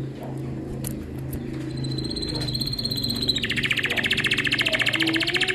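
A bird singing: a held high whistle turns about three seconds in into a loud, fast trill of many even notes that stops near the end, over a steady low hum.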